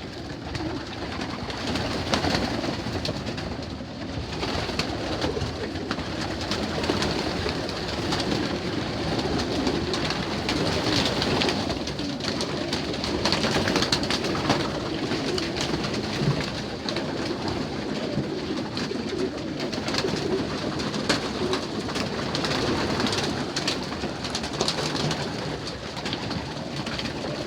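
A loft full of young racing pigeons cooing together in a dense, steady chorus, with many short sharp clicks scattered through it.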